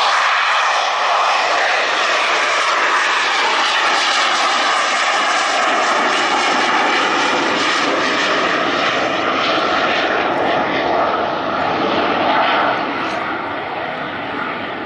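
Rolls-Royce Pegasus turbofan of an AV-8B Harrier II+ at full power during a short takeoff, a loud steady jet noise with slowly shifting tones, easing slightly near the end.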